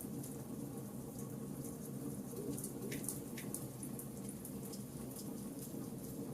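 Charcoal campfire burning: a steady low rumble under frequent small crackles, with two sharper pops about three seconds in.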